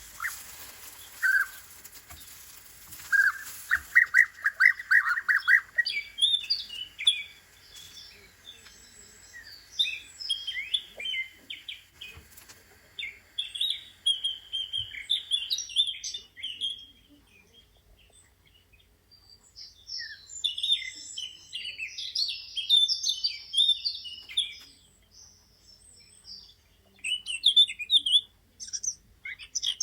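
Small birds chirping and twittering. A fast buzzy trill comes first, then short high chirps in scattered bursts with brief pauses between them.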